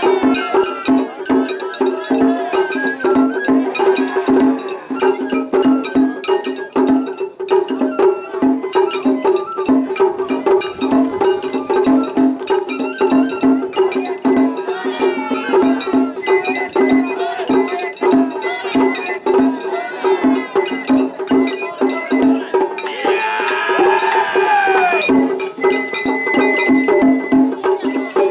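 Japanese festival hayashi: drums and a small metal hand gong are struck in a fast, steady, unbroken rhythm, with high held tones such as a bamboo flute plays.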